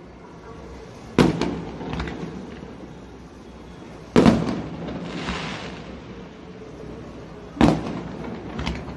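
Aerial firework shells bursting: three loud bangs about three seconds apart, each followed by smaller pops and echoing rumble, with a hiss after the middle bang.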